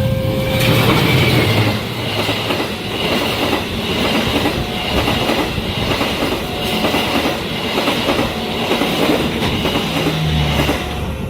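A train passing close at speed, its wheels clattering over the rail joints in a steady rhythm, with a high steady squeal from the wheels on the curve. A level-crossing warning alarm keeps sounding faintly underneath.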